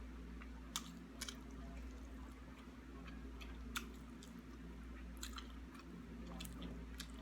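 Close-up mouth sounds of a person eating: chewing, with sharp smacking clicks scattered through.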